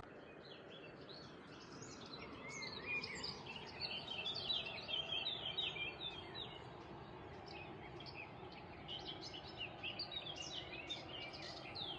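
Small birds chirping and singing, many short quick notes overlapping, over a faint steady hiss.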